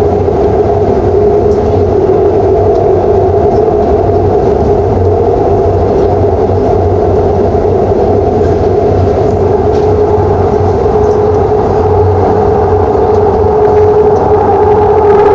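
Shinbundang Line subway train running at speed: a steady rumble of wheels on rail with a steady motor hum, growing a little louder near the end.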